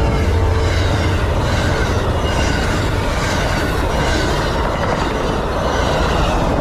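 Amtrak passenger train passing close by at speed, its cars' wheels clattering over the rails with a regular repeating rush. A horn blast fades out about a second in.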